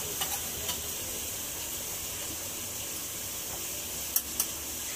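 Onions and spices frying in a pot, a steady sizzle, with a few sharp clicks, two of them close together near the end.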